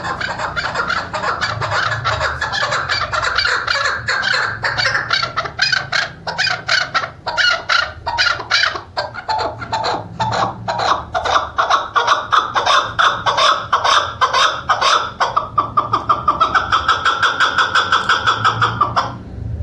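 Chukar partridge calling: a long, loud run of rapidly repeated clucking notes that settles into an even rhythm of several notes a second, stopping shortly before the end.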